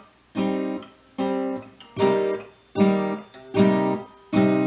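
Acoustic guitar strummed in single chord strokes, about one every 0.8 seconds, each chord ringing out and fading before the next.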